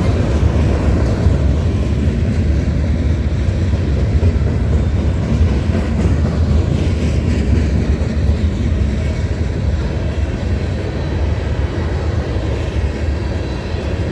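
Train rolling past with a steady low rumble that eases slightly near the end.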